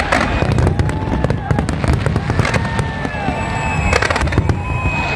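Large aerial fireworks display going off: a dense run of sharp bangs and crackling pops over a continuous low rumble, with short curving whistles among them.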